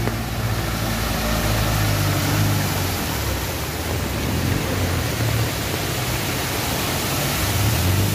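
Steady hiss of heavy rain, with a vehicle engine running low underneath.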